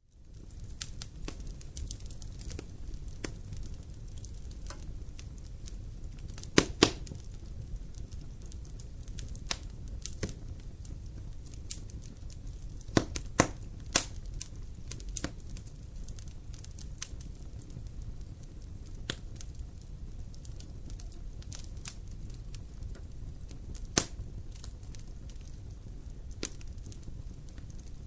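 Wood fire crackling and popping over a low steady rumble, with irregular sharp pops, a few of them much louder, the loudest about a quarter of the way in.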